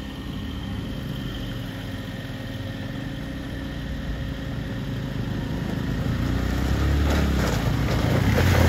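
2006 Maruti Suzuki Alto's small three-cylinder petrol engine running steadily, growing louder and heavier over the last two seconds or so.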